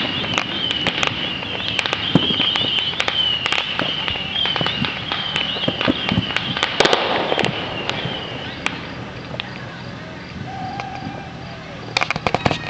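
Neighborhood fireworks and firecrackers going off in the distance: many scattered sharp pops and cracks, with a high wavering whistle over them that stops about two-thirds of the way through. The pops thin out for a few seconds, then a rapid string of firecracker pops breaks out near the end.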